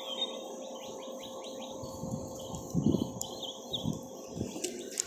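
Small birds chirping in the background, with a quick run of short chirps about a second in and scattered single chirps after it. There are a few soft low thumps or rustles near the middle.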